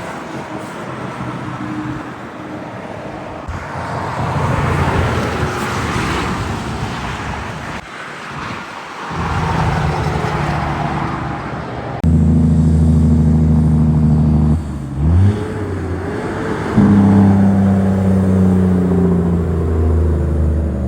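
Highway traffic passing with tyre noise, then a heavy truck's diesel engine close by. Its deep steady drone cuts in loudly about halfway through. The pitch dips and swings briefly a few seconds later, then the drone carries on.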